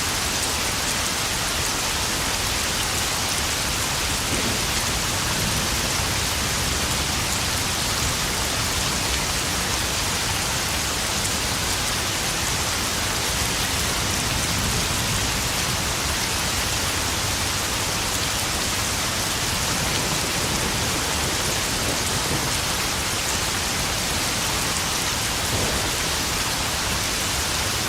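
Steady heavy rain pouring down and pattering on puddles.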